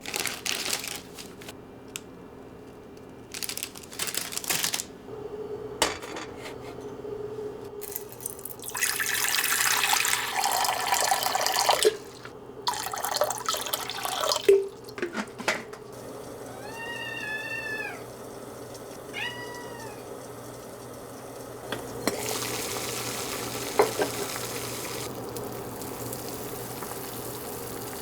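Water running from a kitchen tap in a few bursts, then a cat meowing twice, a longer meow followed by a shorter one, a little after the middle.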